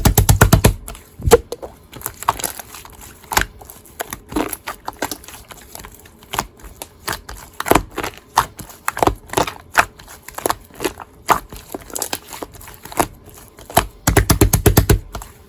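Hands squeezing and poking a scoop-textured 'ice cream' slime, making sharp wet clicks and pops. There are scattered single pops throughout, with quick runs of crackling clicks at the start and again near the end.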